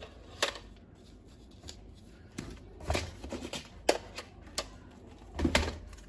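Handling noise: a handful of sharp clicks and knocks spread over several seconds, the loudest about four seconds in and near the end, with light rustling between them.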